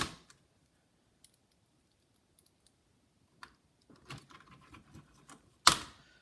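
Clicks and taps of a Dell laptop's plastic chassis and small parts being handled and fitted during reassembly: a sharp knock at the start, scattered faint ticks, a stretch of soft scraping and ticking, and another sharp knock about five and a half seconds in.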